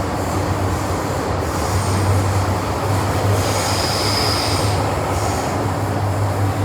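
MTR M-train electric multiple unit running through a tunnel, heard from inside the car: a steady loud rumble and low hum of wheels and motors, with a high-pitched wheel squeal rising over it for about a second and a half in the middle.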